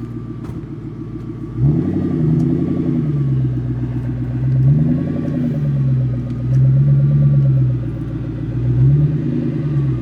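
Ford Mustang V8 idling, then revved from about 1.7 s in: the engine speed rises and falls in four slow swells, held up between them.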